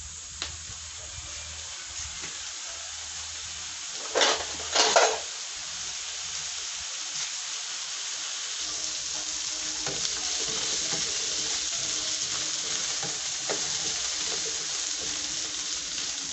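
Cubed carrots and potatoes sizzling in hot oil in a non-stick frying pan, a steady hiss that grows slightly louder. Two short, louder noises come about four and five seconds in.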